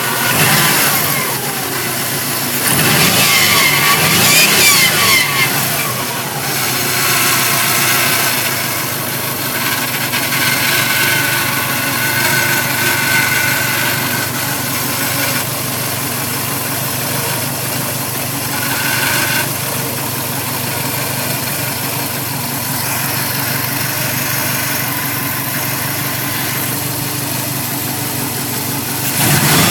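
2005 Subaru WRX's turbocharged flat-four running, revved up and down a few seconds in, then running steadily with a thin high whistle that comes and goes in the middle. This is one of the unexplained noises the owner is recording.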